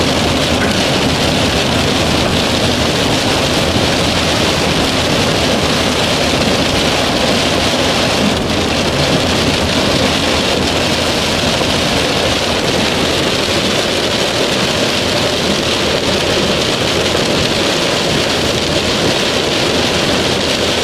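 Heavy rain pelting a car's roof and windshield, heard from inside the moving car with tyre and road noise: a loud, steady rush that does not let up.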